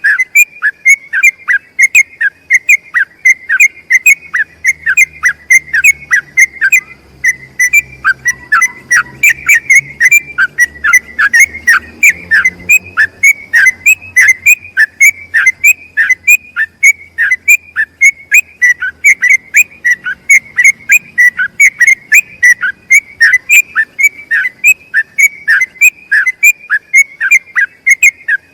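Yellow-vented bulbul (trucukan) singing a long, unbroken 'ropel' run of short whistled notes, about three a second.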